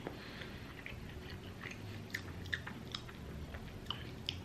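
A man chewing a mouthful of soft doner kebab meat with his mouth closed: faint, irregular wet clicks and smacks of the mouth.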